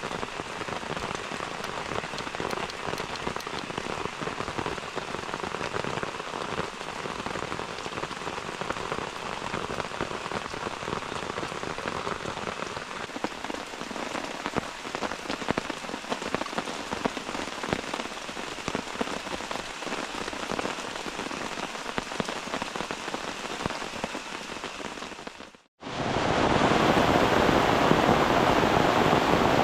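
Rain pattering on a tent from inside, a dense fine patter. About 26 s in it cuts out for an instant, and a louder, steady rush of heavy rain follows.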